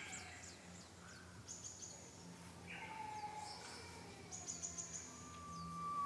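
Japanese bush warbler (uguisu) song, faint, with other small birds trilling high in the background; about five seconds in begins the long steady whistle that opens its song.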